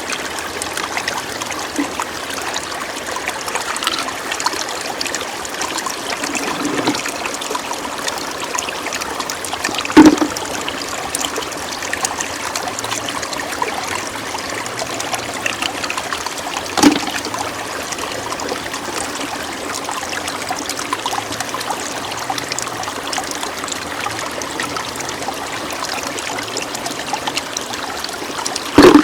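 Shallow floodwater running and trickling steadily, broken by three sharp thumps: one about ten seconds in, one a few seconds later, and one at the very end.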